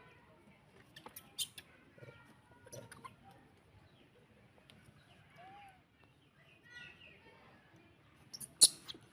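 Faint high chirps and squeaks from a small animal, with a few sharp clicks; the loudest click comes near the end.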